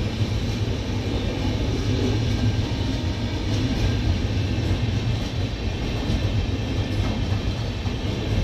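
Indian Railways express train coaches rolling past close by, their wheels running on the rails with a steady, continuous rumble.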